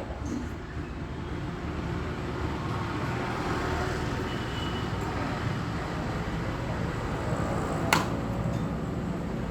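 John Deere 5050D tractor's diesel engine running steadily, with one sharp click about eight seconds in.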